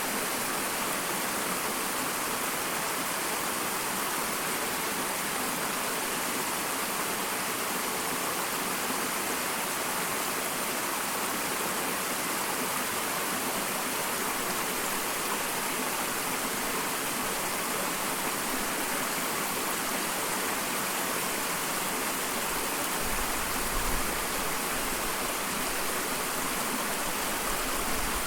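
Small waterfall: an even, steady rush of falling and splashing water, with a brief low rumble near the end.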